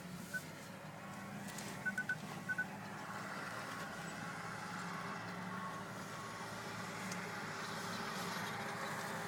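A BMW X5's cabin hum as it creeps along at low speed, with short high electronic beeps in quick clusters during the first three seconds, typical of the park distance control warning of a nearby obstacle. The hum grows a little louder after the beeps stop.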